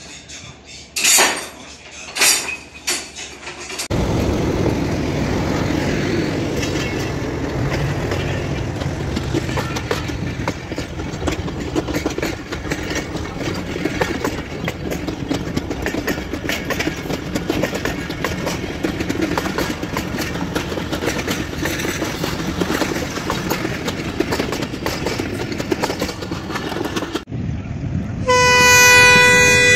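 Two loud clanks, then Pakistan Railways passenger coaches rolling past close by: a steady rumble of steel wheels on rail with quick clicking over the rail joints. About 28 seconds in, a diesel locomotive's horn sounds, a loud chord of several steady tones.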